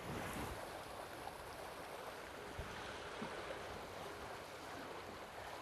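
Steady rush and hiss of water streaming along the hulls of a sailing catamaran under way, with a single light knock about two and a half seconds in.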